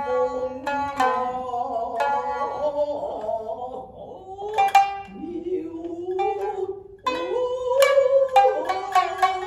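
Two shamisen playing a Shinnai-bushi passage, the main shamisen and the higher-tuned uwajōshi: sharp plucked strikes that ring and decay, with held, sliding tones in between and a brief lull about seven seconds in.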